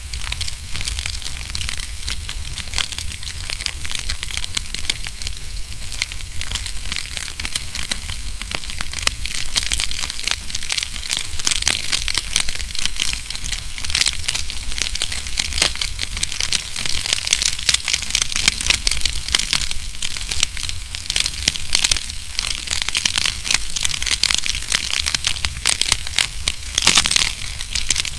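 Wood fire crackling in a fireplace: a dense, unbroken run of snaps and pops over a low rumble, with a cluster of louder pops near the end.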